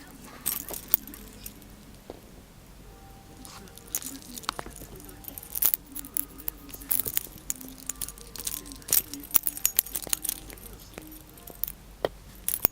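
A cat swatting and clawing at a vacuum cleaner: irregular sharp clicks and taps, more frequent from about four seconds in.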